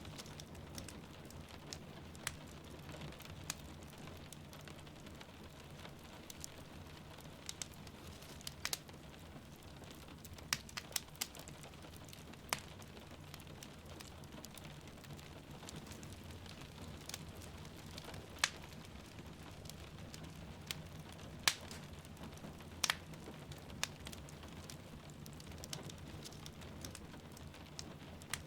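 Wood fire crackling in a fireplace, with irregular sharp pops, a few louder ones about halfway through and around two-thirds of the way in, over the steady hiss of rain and a low steady rumble.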